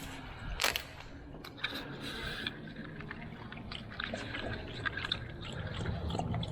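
Pit bull splashing and dripping in the water it has been given to drink, with irregular small splashes and drips and a sharper splash under a second in.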